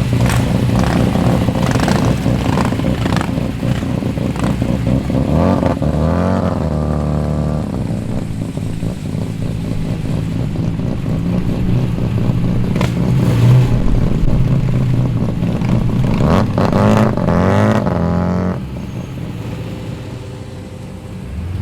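Jeep engines running loud as the vehicles roll past at low speed, revving up in pitch about six seconds in and again between about sixteen and eighteen seconds. The sound falls away at about eighteen and a half seconds.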